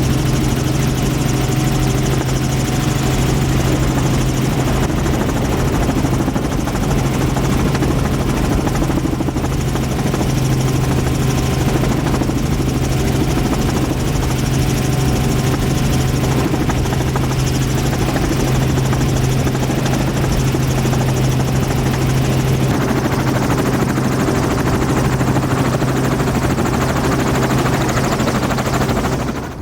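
Helicopter running in flight, a loud steady drone with a strong low hum that holds unchanged, then cuts off suddenly at the end.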